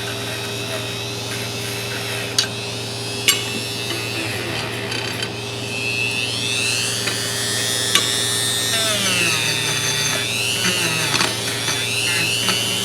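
Small wire wheel brush on a power tool running against a steel adjustable wrench to clean off rust. The motor's whine dips and rises in pitch as the wheel is pressed in and eased off, with a few sharp ticks.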